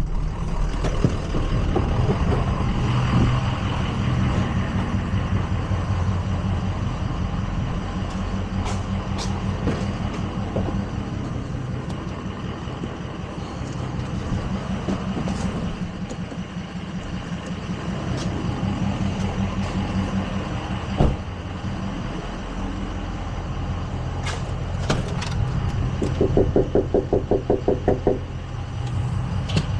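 Tow truck engine running steadily, with a few sharp clicks and knocks and a quick rattling pulse for about two seconds near the end.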